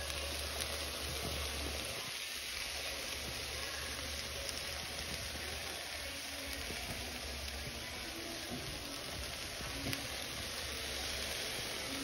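Steady sizzling of shrimp, scrambled egg and mixed vegetables frying in a pan, with a low hum underneath.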